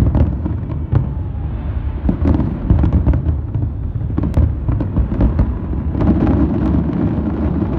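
Fireworks display in a dense barrage of aerial shell bursts: a continuous low rumble of booms with many sharp cracks on top, growing louder about six seconds in.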